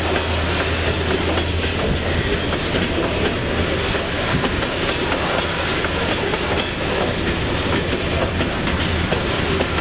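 Covered hopper cars of a Union Pacific freight train rolling past at a steady speed: a continuous rumble of steel wheels on rail, with a steady clickety-clack over the rail joints.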